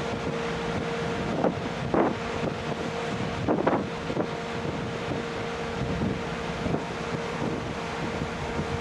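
Wind buffeting the microphone on board a coastal passenger ship, over a steady hum from the ship, with a few brief louder moments about two and three and a half seconds in.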